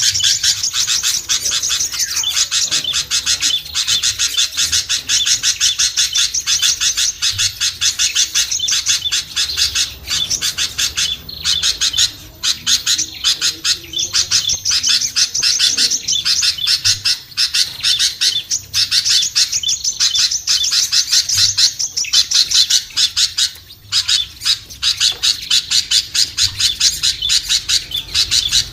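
Dense, rapid high-pitched chirping and twittering of many small songbirds, kept up almost without pause apart from a couple of brief dips: a bird-lure (pikat) call track meant to draw small birds down.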